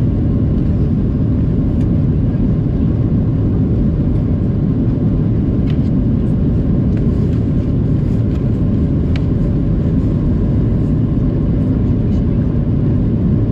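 Inside the passenger cabin of a Boeing 737-700 during takeoff: the CFM56-7B turbofan engines and airflow make a loud, steady low rumble that holds at one level throughout. A few faint ticks can be heard over it.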